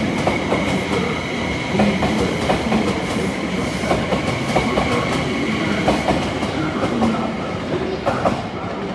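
Yakumo limited express electric train running along the platform track, its wheels clacking over rail joints about once a second over a steady high-pitched whine.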